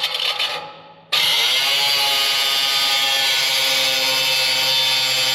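Power tool cutting through an over-long bumper bolt stud. A fading whir first, then about a second in the tool starts again and runs at a loud, steady, high whine.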